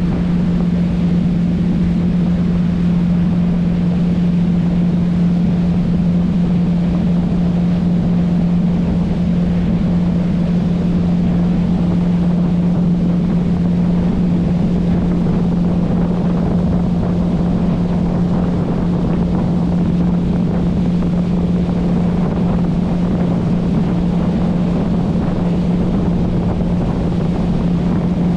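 Motorboat engine running at a constant speed, a steady unchanging hum, with wind noise on the microphone and water rushing.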